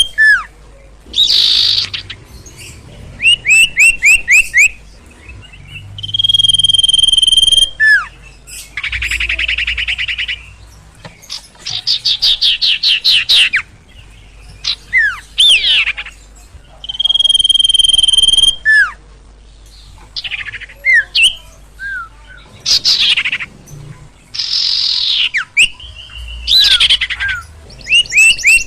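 Songbird of the kind sold in Indonesia as "sirtu" or "sirpo" singing loudly and energetically. Its phrases alternate: clear whistles held for about a second and a half, fast rattling trills, quick falling notes and bursts of rapid chips, with short pauses between them.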